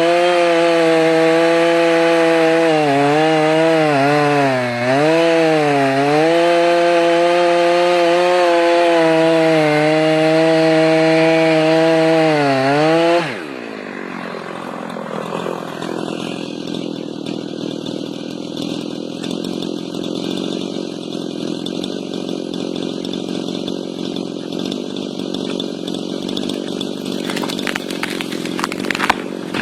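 Chainsaw running at high revs and cutting wood, its pitch dipping again and again as the chain loads up in the cut. About 13 seconds in the throttle is released, the engine note drops away, and the saw runs on more quietly. A few sharp clicks come near the end.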